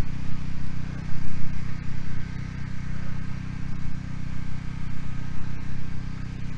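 Engine of a generator running steadily at constant speed, a continuous low hum.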